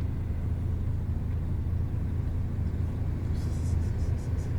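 Steady low rumble of a bus's engine and road noise heard inside the passenger cabin, with a quick run of light, high ticks or rattles a little after three seconds in.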